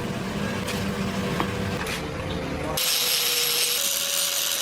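Metalworking machinery running with tool noise and a steady hum. About three seconds in, the sound changes abruptly to a steady high hiss, as of a tool cutting or grinding metal.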